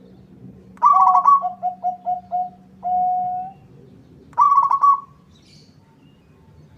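Zebra dove (perkutut) singing: a high opening coo, then a quick run of short lower coos ending in one longer held coo. A second phrase starts about four and a half seconds in and breaks off after half a second.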